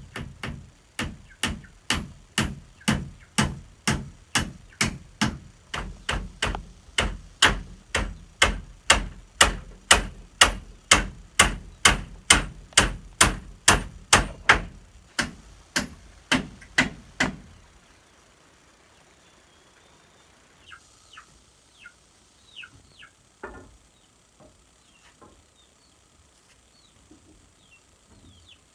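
Steady, evenly paced blows of a hand tool, about two a second, as in hammering or chopping during construction. The blows grow louder partway through and stop after about seventeen seconds. Faint, short, high bird chirps follow.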